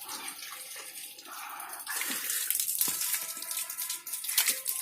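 Water being poured onto a potted capsicum plant, a splashing trickle that grows louder about two seconds in.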